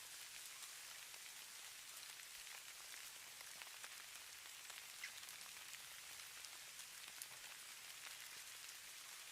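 Faint, steady hiss of falling snow, with many tiny scattered ticks of grains landing on a surface.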